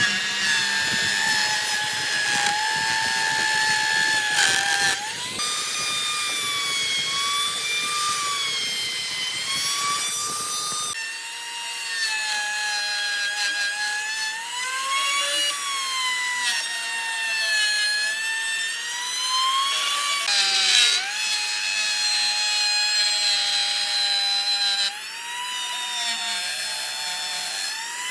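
Electric power tool cutting wood: a high motor whine whose pitch sags and recovers again and again as the blade takes load. A lower rumble under it drops out about eleven seconds in.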